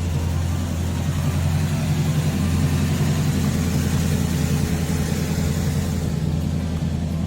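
A 1967 Pontiac Firebird's 428 cubic inch V8 idling steadily.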